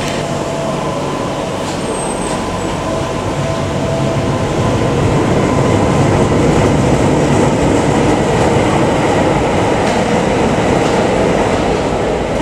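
Tyne & Wear Metro electric train running along the platform: a steady rumble of wheels on rail that swells to its loudest around the middle, with a thin whine over it in the first few seconds.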